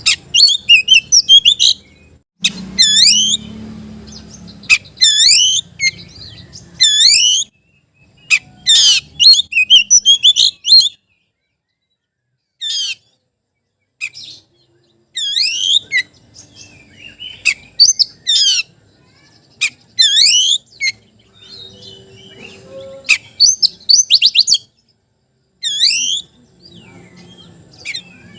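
Oriental magpie-robin (kacer) singing loud phrases of fast, swooping whistles, each about a second long with short pauses between. This is a challenge song of the kind used to provoke other magpie-robins into answering.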